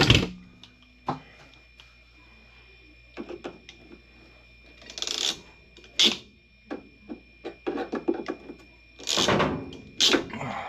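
Hands working with tools and parts at a water pipe: a knock at the start, scattered clicks, and several short scraping or rustling noises.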